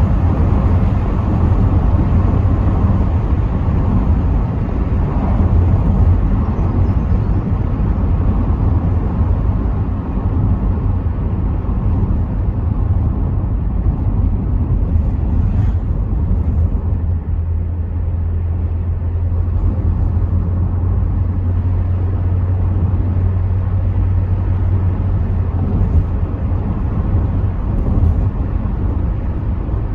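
Rover 75 V6 Tourer on the move, heard from inside the cabin: a steady drone from the V6 engine and tyres on the road, with a low hum.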